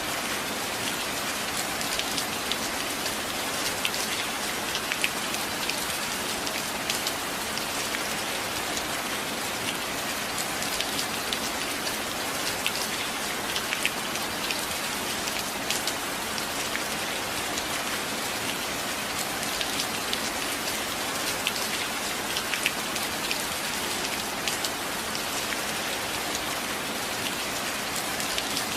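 Steady rain: an even hiss with frequent sharp ticks of single drops landing.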